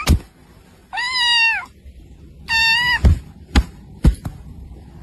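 A cat meowing twice, each meow a short arched call, followed by a few sharp knocks.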